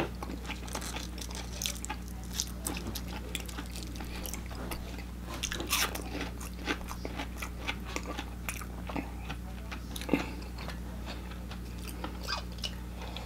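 Close-miked chewing of crispy deep-fried food: a run of crackly crunches and wet chews, over a steady low hum.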